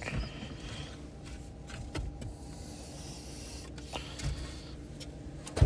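A few light clicks and knocks of plastic dash trim being handled and pried loose, with one sharper click near the end.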